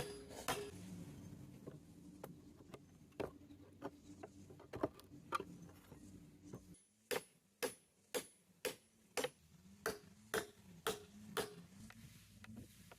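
A series of sharp taps or knocks, scattered at first, then steady at about two a second for several seconds, over a faint wavering low hum.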